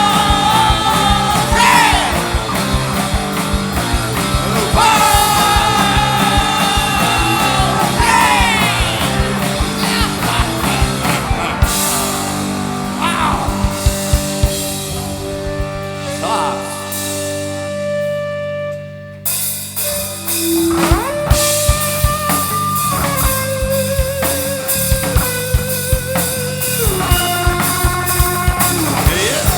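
A rock band playing live, with singing, drums and electric guitar, heard from the mixing desk feed. The music thins out in the middle, drops away briefly about two-thirds of the way through, then the full band comes back in.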